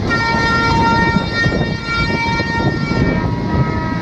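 Indian passenger train running at speed, heard from an open door, its wheels and coaches rumbling. A loud, steady high-pitched tone of several notes sounds over the rumble for about three seconds, then fades to a single fainter note.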